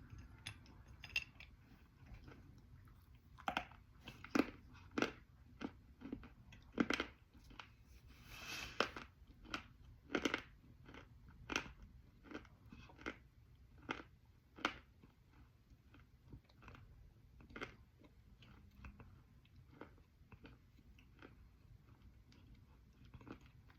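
Close-up chewing of crunchy edible clay, likely Punjab clay: sharp, irregular crunches as chunks are bitten and broken, loudest through the first half, then softer, quieter grinding as the clay is chewed down.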